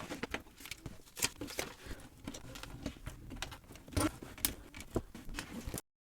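Small plastic building bricks clicking and rattling as they are handled and pressed together, in quick irregular taps with a few sharper clicks. The sound cuts off abruptly near the end.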